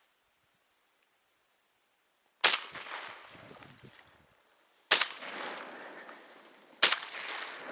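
Three shotgun shots, the first about two and a half seconds in, then two more roughly two seconds apart, each dying away in a long echo.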